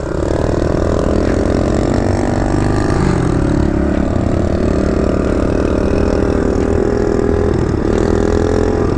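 Kawasaki KLX110 dirt bike's small single-cylinder four-stroke engine running steadily at low to moderate speed, its pitch dipping briefly about three seconds in and again near the end.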